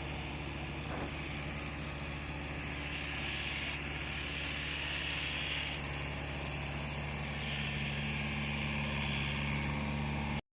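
Tractor engine idling steadily at an even speed; the sound cuts off abruptly near the end.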